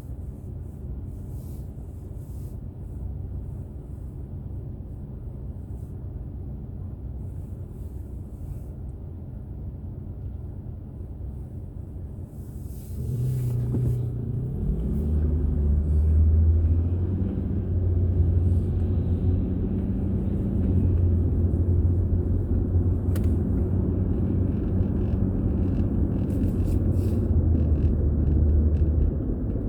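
Car engine and road noise while driving. It is quieter for the first half, then gets louder about halfway with a short rising engine note, and after that runs as a steady low hum.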